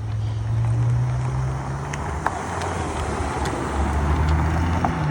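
Car engine running at low revs, a steady low hum that shifts slightly in pitch.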